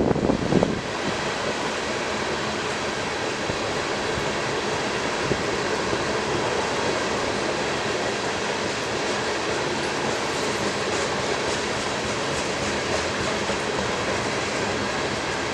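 Freight train cars rolling past on the rails: a steady rumble and hiss of steel wheels on track, louder and uneven for the first second, with faint clicks later on.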